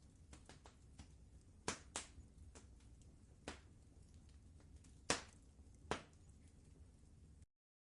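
Wood fire crackling: sharp snaps and pops, five louder ones among many small ticks, over a low steady rumble. The sound drops out to dead silence near the end.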